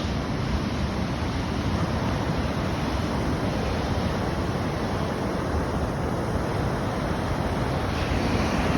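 Storm surf breaking on the beach as a steady rush of noise, with wind buffeting the microphone.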